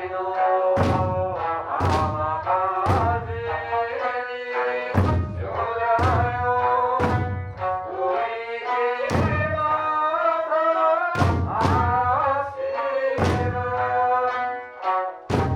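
Okinawan eisa music, with singing and sanshin, and eisa drums struck together in heavy beats about once a second, with a short break in the drumming near the middle.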